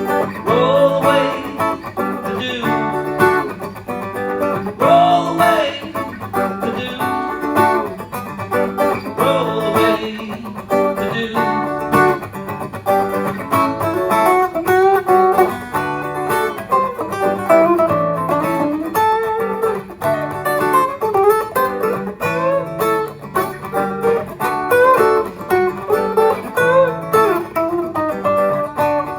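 Live guitar instrumental, a picked lead line of single notes over strummed chords and a recurring low bass note, with no singing.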